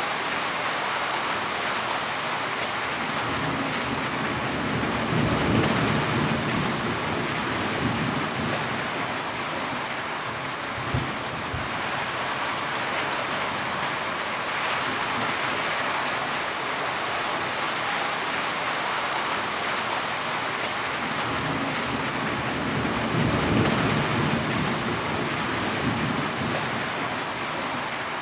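Steady heavy rain falling. Two low rolling rumbles of thunder swell and fade, one about five seconds in and one near the end.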